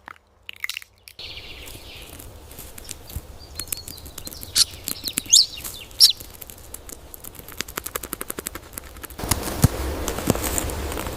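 Small birds chirping a few times over a run of light, irregular taps and crunches, typical of a bird hammering a nut open on wood. A steady outdoor hiss grows louder about nine seconds in.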